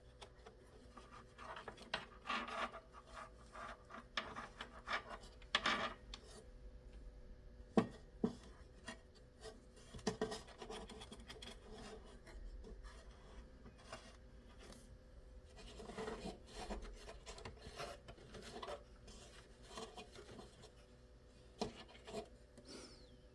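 Irregular rubbing and scrubbing by hand, a dirty part of the PC's CPU cooling area being wiped clean with alcohol, with two sharp clicks about eight seconds in.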